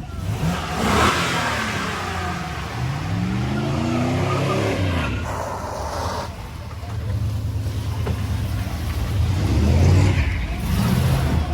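Truck engine revving hard as the truck is swung around. Its pitch climbs and then falls about three to five seconds in, over a noisy rushing haze, and it revs up again near the end.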